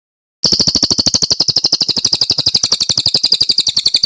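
Brown cililin bird singing a long, rapid rolling trill: an even run of loud, clipped notes at about a dozen a second, starting about half a second in.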